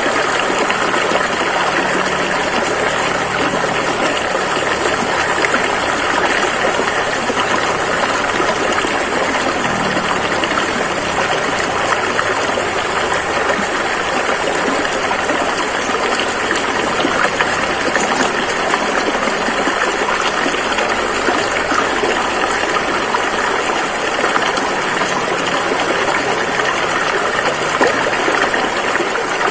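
Rushing river water: a steady, full rush of flowing water with no breaks. A faint low hum sits underneath for the first third and fades out.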